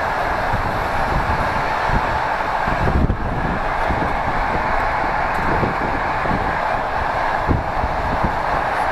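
Passenger train carriage running at speed, heard from inside the corridor: a steady rushing rumble of wheels and air, with scattered low knocks.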